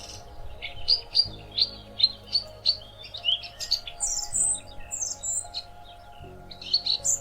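Songbirds chirping in quick runs of short notes, over soft background music of steady held tones.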